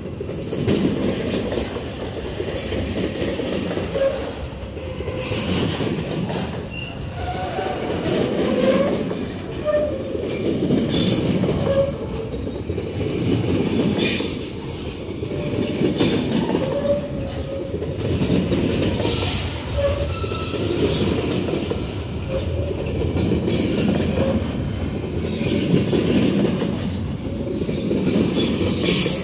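Empty steel flatcars of a long freight train rolling past: a steady rumble of wheels on rail, with clanks every second or two and short wheel squeals.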